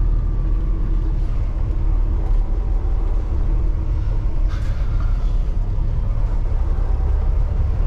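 Semi truck's diesel engine running at low speed, a steady low rumble heard from inside the cab, with a brief hiss about halfway through.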